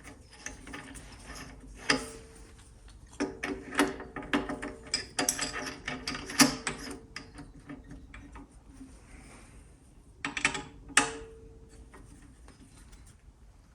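A hole cutter being fitted into a drill chuck: a busy run of sharp metal clinks and gear-like ratcheting clicks, some with a short ring. It comes in two spells, a longer one early on and a brief one near the end.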